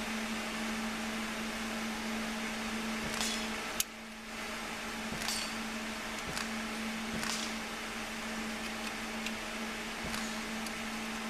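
Steady low hum of background machinery with a few light clicks of handling as a pistol is being loaded, one sharper click about four seconds in. No shots are fired.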